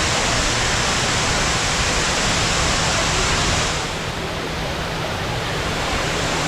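Steady rushing of a large waterfall, a dense even wash of falling water. About four seconds in it becomes a little quieter and less hissy.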